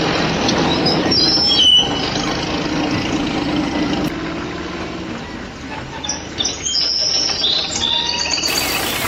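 A small motor runs steadily for about the first half and then fades, with short high bird chirps about a second in and again in the second half.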